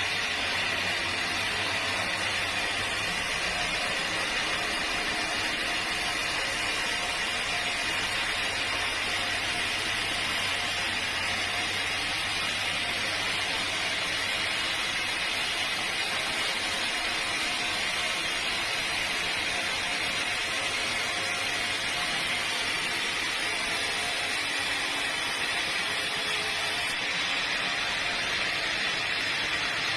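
Sawmill machinery running steadily, a constant even mechanical noise without pauses.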